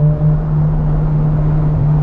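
Mazda FC RX-7's two-rotor rotary engine running at steady revs under way, with a brief dip in loudness just after the start before it holds an even pitch.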